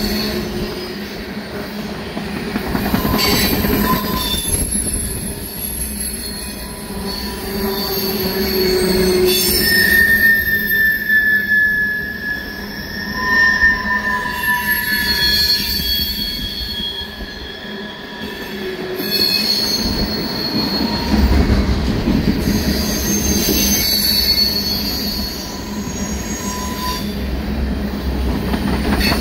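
Railroad tank cars of a freight oil train rolling past on the rails: a steady rumble of wheels on track, with the wheels squealing in thin high tones that come and go.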